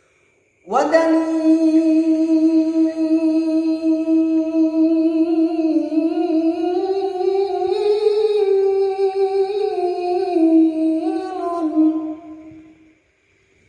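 A single unaccompanied voice sings one long wordless melismatic phrase of an Arabic devotional suluk, held for about twelve seconds. The pitch wavers slowly, climbs in the middle, falls back with small turns near the end, then fades out.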